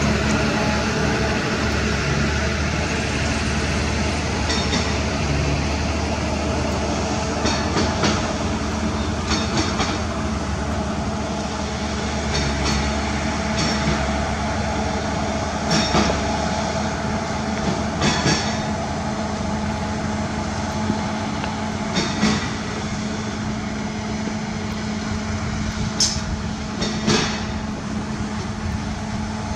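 Heavy diesel construction machine running steadily under load, with short metallic squeaks and clanks every second or two, the kind steel crawler tracks and linkages make.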